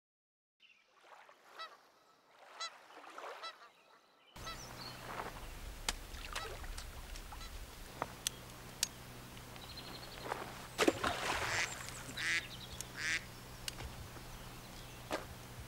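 Birds calling repeatedly, faint at first. About four seconds in, outdoor ambience with a steady low rumble cuts in, and the calls and a few sharp clicks sound over it.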